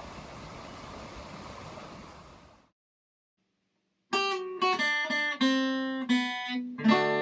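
Steady rush of the rain-swollen creek, fading out after about two and a half seconds. After a short silence, acoustic guitar music starts with picked notes and ends on a strummed chord.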